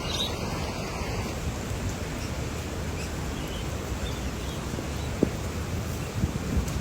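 Steady rushing of floodwater, with a few faint high chirps and a brief click about five seconds in.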